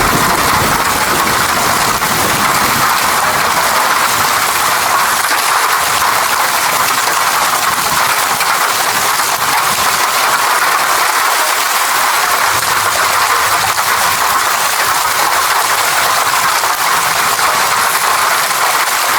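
Steady rain falling, an even hiss with almost no low rumble.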